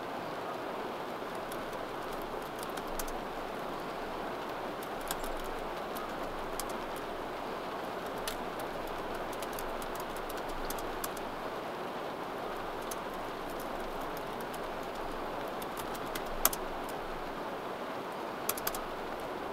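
Steady rain falling on a car roof, heard from inside the cabin, with scattered light ticks, a louder tap about 16 seconds in and a quick few near the end.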